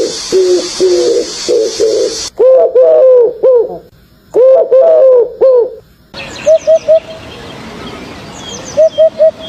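Birds calling in a series of short arched, dove-like coos, repeated in groups of three or four, with abrupt changes between recordings.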